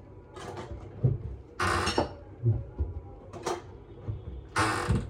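Irregular handling sounds: soft knocks and two short swishes, the first about a second and a half in and the second near the end.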